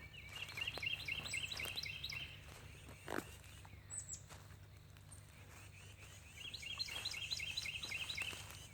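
Small birds chirping in quick runs of short repeated notes, two bouts: one in the first couple of seconds and another near the end, with a few thin high calls and scattered clicks between them.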